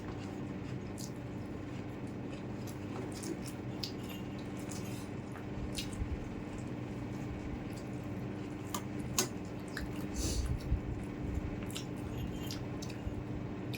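Eating noises of chicken curry and rice: scattered wet smacks and squishy clicks of chewing. A steady low hum runs underneath.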